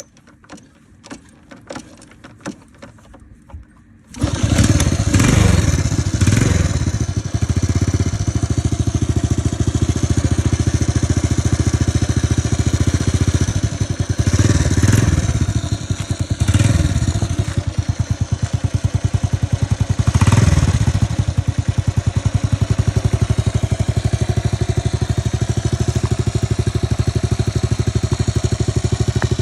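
Honda Super Cub single-cylinder four-stroke engine being kick-started: a series of light clicks as the kick lever is eased round to top dead centre, then the engine catches about four seconds in and runs with a steady putter. The throttle is blipped about four times before it settles to idle.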